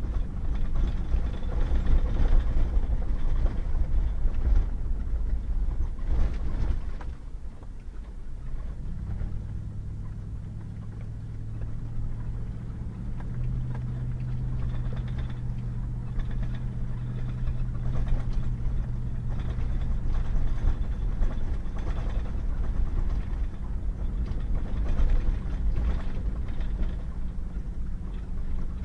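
Pickup truck driving on a wet dirt road: steady low engine and tyre rumble with scattered knocks and bumps. About a third of the way in the rumble drops and a steady low engine hum comes through for some twelve seconds, then the road rumble builds again.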